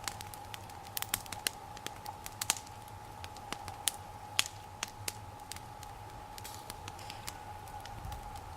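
Wood campfire crackling, with irregular sharp pops and snaps a few times a second.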